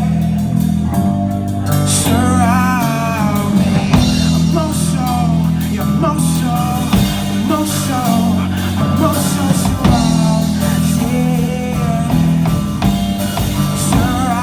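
A live pop-rock band playing, with drum kit, bass and guitar, and a wavering lead line over the top that the recogniser picks up no words from.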